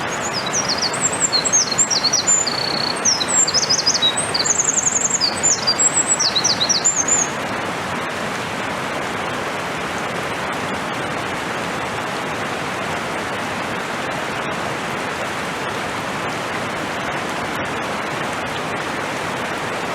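Eurasian wren singing one long, loud song of rapid high trills and chattering notes that ends about seven seconds in, over the steady rush of a mountain stream that carries on alone afterwards.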